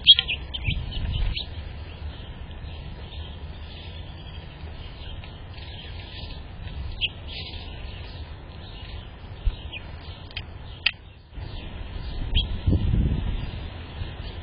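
Small birds chirping: scattered short, sharp calls, some close and loud, over a low outdoor rumble that swells briefly near the end.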